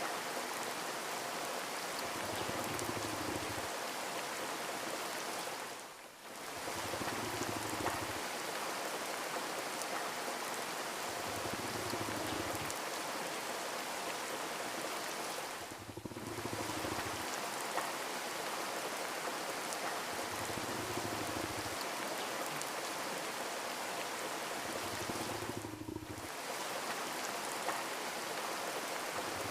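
Steady rain falling, a continuous even hiss that dips briefly three times, about ten seconds apart.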